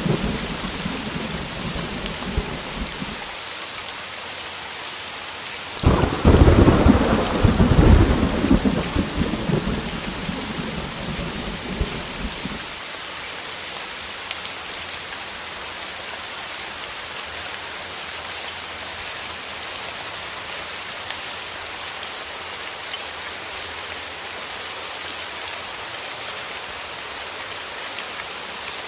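Heavy rain falling steadily, with thunder. A rumble dies away in the first few seconds, then a sudden thunderclap about six seconds in rolls on for several seconds before fading, leaving only the rain.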